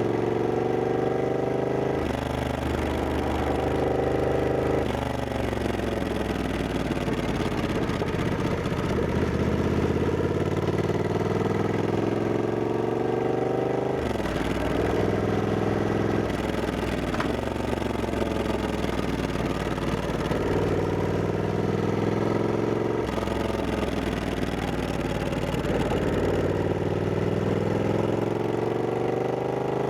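Triumph Scrambler 1200X's 1200 cc parallel-twin engine under way, its pitch repeatedly climbing under throttle and dropping back at gear changes or when the rider rolls off.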